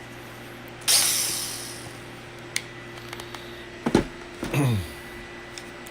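Handling noises from a small 12 V cordless polisher/sander being examined: a rustling hiss about a second in, a click just before four seconds, then a short low sound falling in pitch, over a steady low hum.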